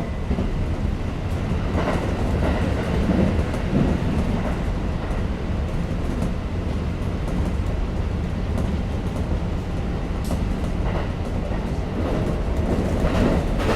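Kintetsu 5800-series electric train running, heard from inside the passenger car: a steady low rumble, with a few knocks of the wheels over rail joints about two seconds in and again near the end.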